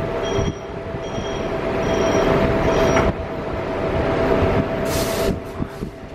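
PATCO Budd rapid-transit train standing at a station: a two-tone warning beep repeats about once every 0.8 s, four times, over the car's steady electrical hum. About five seconds in there is a short loud hiss of released air, just before the train pulls out. Wind rumbles on the microphone.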